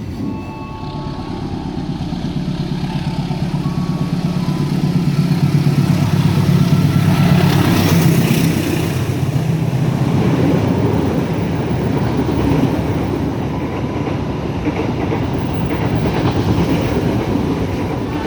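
A train running past on the rails: a steady rumble that builds to its loudest about seven or eight seconds in, then eases off.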